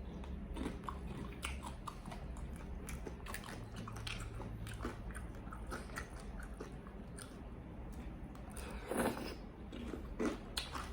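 Close-up eating of fried chicken: biting and chewing with small crunchy clicks throughout, and a couple of louder bites about nine and ten seconds in.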